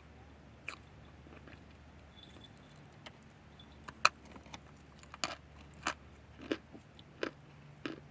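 Chunks of pure cornstarch being bitten and chewed, with crisp, squeaky crunches. After one crunch early on, a steady chewing rhythm sets in about four seconds in, roughly one and a half crunches a second.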